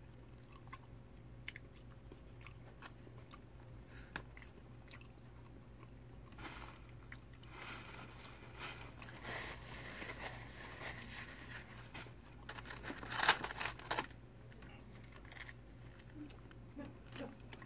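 Close-up chewing and crunching of a crispy fried catfish fillet, with scattered mouth clicks at first and denser, louder crunching through the middle, loudest a little past two-thirds of the way in.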